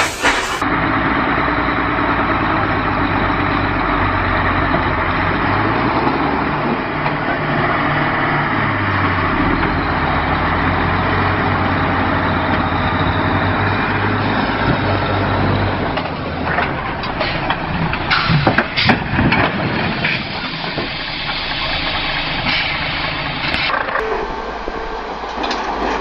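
Heavy truck engine running with a steady low drone, with several sharp knocks and clatter about two-thirds of the way through.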